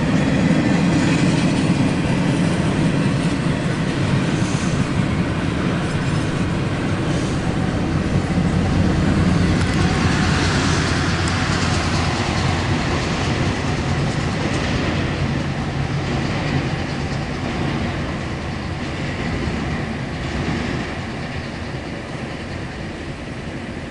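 CSX intermodal freight train's cars rolling past on track 2, with continuous wheel clatter over the rails. The sound grows a little fainter over the last few seconds.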